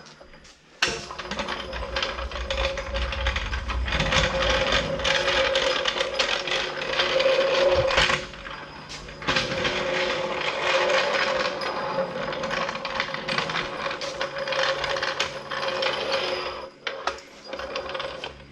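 A motor-driven power tool running steadily with a whirring tone, starting about a second in, pausing briefly about eight seconds in, then running on until near the end.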